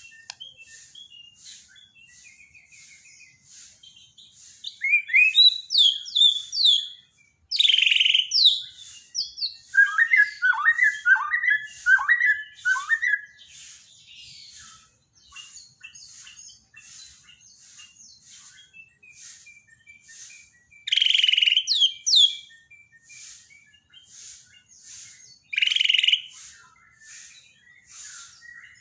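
Bird song from a masteran training track meant to set a silent white-rumped shama singing: loud, varied whistled phrases in several bursts, including a run of quick falling notes, over a steady string of short, quick chips several a second.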